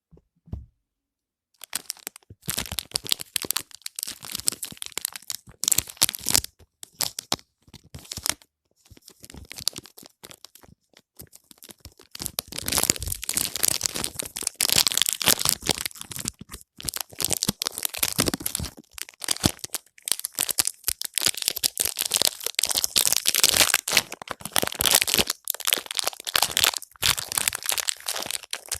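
Soap packaging being unwrapped by hand: the wrapper crackles and crinkles in uneven handfuls of sharp clicks, starting about two seconds in, with short pauses and the busiest stretches in the second half.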